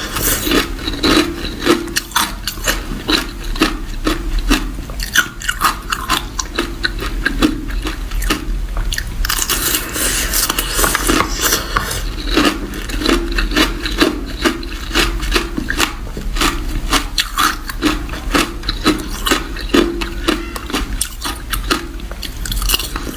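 A person biting and chewing ice close to the microphone: a rapid, irregular run of sharp crunches.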